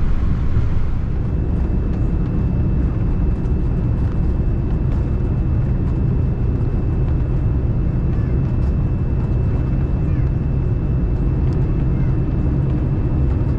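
Steady, loud rumble in a Boeing 787-9 cockpit during the landing rollout: engine and airflow noise heard from the flight deck. A thin, steady high-pitched tone joins it about a second in.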